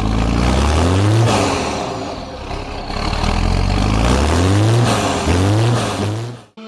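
Tractor engine revved three times, its pitch climbing with each rev and dropping back between them, then cut off suddenly near the end.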